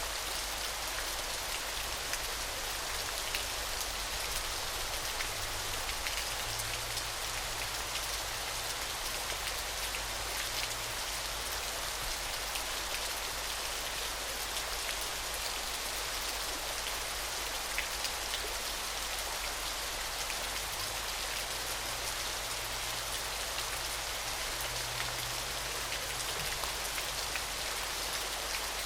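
Waterfall: a steady rush of falling water, with a fine patter of splashing drops.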